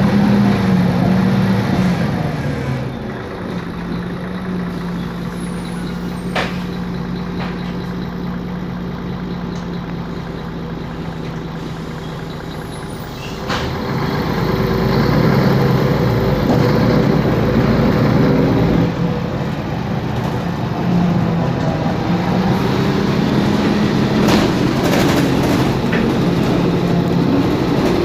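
Mercedes-Benz Conecto city bus's OM457LA turbo diesel engine. The engine note drops and holds steady and quieter for about ten seconds, then climbs and gets louder under load after a sharp click just past the middle, rising again near the end.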